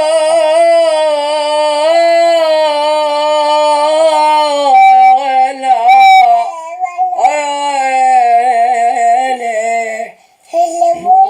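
A man singing ataba, drawing out long wavering held notes on a vowel in the melismatic 'ya wayla' refrain. There is a change of note about five seconds in and a short gap near the end.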